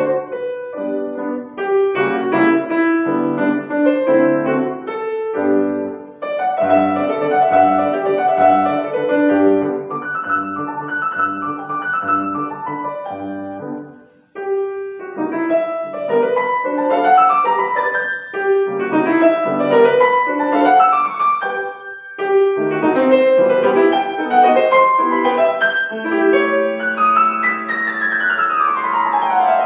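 Acoustic piano playing a piece with many notes at once. It stops briefly about fourteen seconds in, has evenly repeated bass notes before that break, and ends with a fast descending run.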